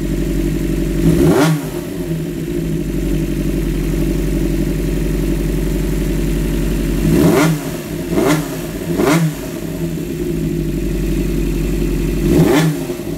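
Honda CBR400F air-cooled inline-four motorcycle engine idling steadily and blipped five times, each a quick rev up and back down, running after a repair of a noise from the cylinder head area.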